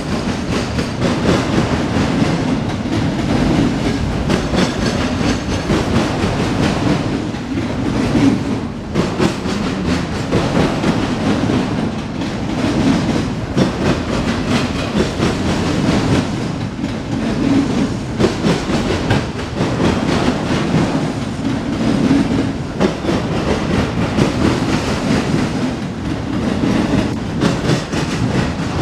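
Freight train of autorack cars rolling steadily past at close range: a continuous rumble of steel wheels on the rails that swells and fades as the cars go by, with wheels clacking over rail joints.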